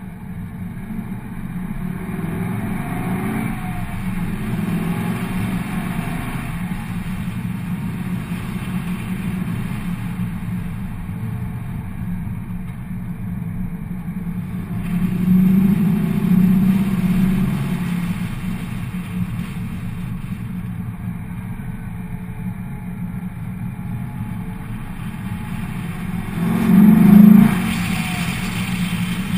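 2004 Pontiac GTO's 5.7-litre LS1 V8 running through JBA shorty headers while driving, a steady engine and exhaust sound. It swells twice under acceleration, once around the middle and more sharply near the end. The sound is picked up through a waterproof camera case.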